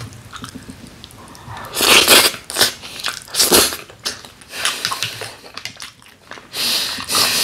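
Close-miked chewing of a mouthful of cockle and raw beef bibimbap, coming in several separate loud crunching bursts.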